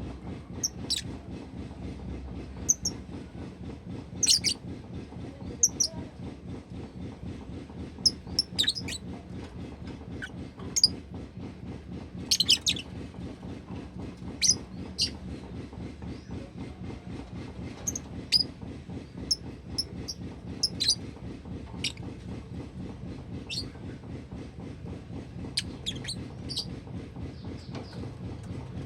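Pet lovebird giving short, sharp high chirps, one or two at a time at irregular intervals, over a steady low hum.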